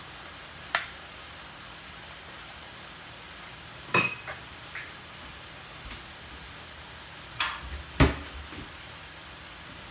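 Kitchenware clinking and knocking: a few separate strikes of utensils on dishes, one with a short ringing clink about four seconds in and a duller, louder knock near the end.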